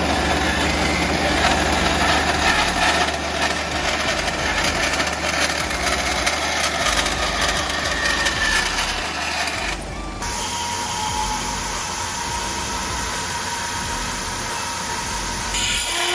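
Power tool running steadily during the bracket fabrication, a continuous loud noise that changes abruptly about ten seconds in.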